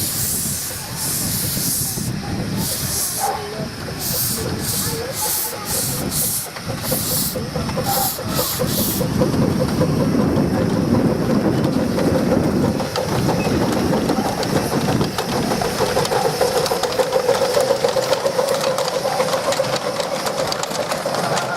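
Miniature steam locomotive hissing, with a run of sharp exhaust chuffs about two to three a second in the first half. It then settles into a steady run with rapid clicking from the train on the track.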